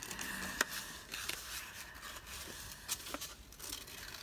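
Scissors snipping printed paper, a few separate sharp snips with paper rustling between them.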